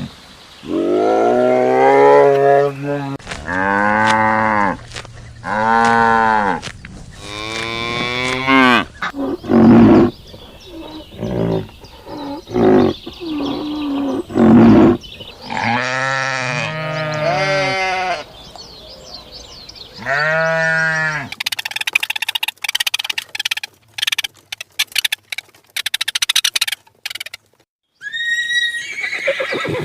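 Farm animals calling: cattle mooing and sheep bleating in a series of drawn-out calls, each rising then falling in pitch. Later comes a stretch of sharp clicks and scuffling noise, then a higher call near the end.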